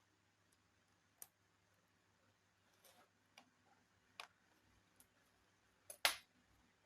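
Scattered light clicks and taps of laptop parts being handled during reassembly, with one sharper, louder click about six seconds in.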